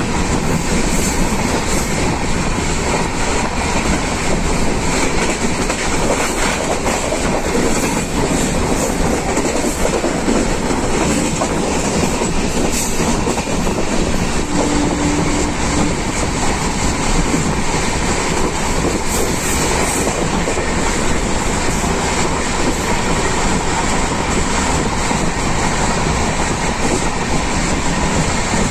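Rumble and clatter of an express train's coach wheels running over the rails, steady throughout, heard from inside the moving coach.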